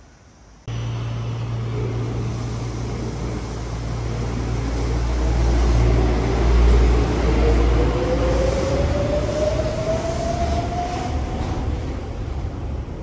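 Chiba Urban Monorail suspended train running, starting abruptly just under a second in. A steady low hum sits beneath a motor whine that rises smoothly in pitch as the train accelerates.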